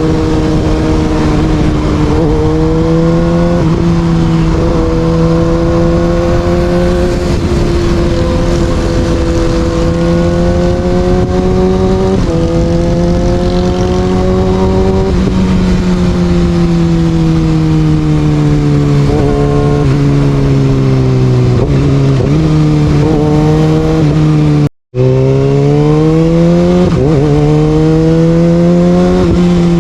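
Kawasaki Ninja ZX6R's inline-four engine, fitted with an Austin Racing exhaust, pulling hard on the road, its pitch rising and falling again and again with throttle and gear changes. The sound cuts out for an instant about 25 seconds in.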